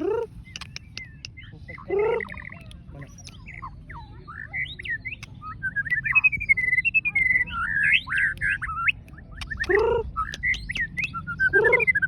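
White-rumped shama singing a rich, varied song of quick whistles, chirps and clicks. Four loud swooping calls that fall in pitch come at the start, about 2 s in, about 10 s in and near the end.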